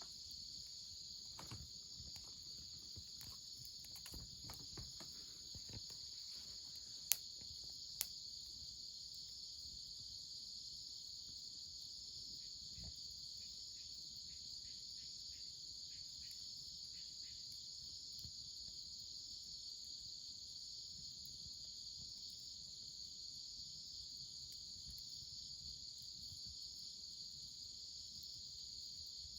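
Steady high-pitched chorus of insects, with scattered faint clicks and two sharp pops about seven and eight seconds in.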